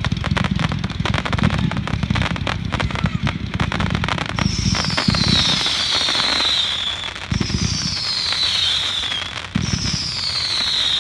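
A 500-gram consumer fireworks cake firing: a rapid run of shots and crackling bangs for the first few seconds. Then three separate shots, each a launch thump followed by a whistle falling in pitch for about two seconds.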